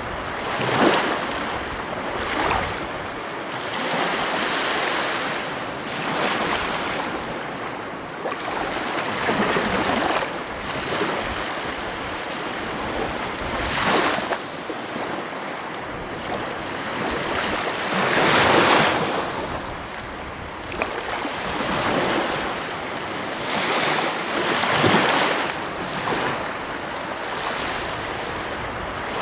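Heavy ocean waves breaking on the shore in a continuous wash of surf, with a crash every few seconds; the biggest comes a little past halfway.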